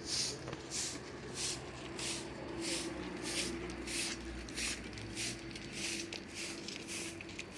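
Rhythmic scraping or brushing strokes, about one and a half a second, evenly repeated, over a faint low hum.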